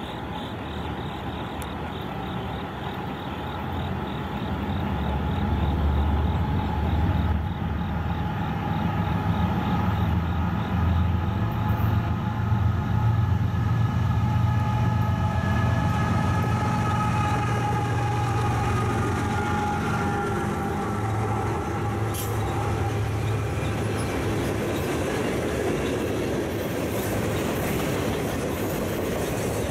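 A CSX mixed freight led by three GE diesel-electric locomotives (ET44AH, ES44AH, AC44CW) approaches and passes at about 42 mph. The deep engine rumble builds and peaks, with a drawn-out tone that falls slightly in pitch as the units go by. From about two-thirds of the way in, the freight cars roll past.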